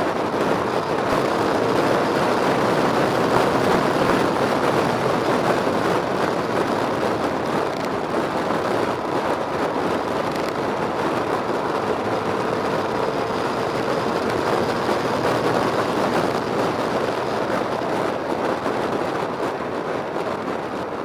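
Motorcycle engine running steadily under way, mixed with a continuous rushing noise; a faint engine tone drifts slightly in pitch through the middle.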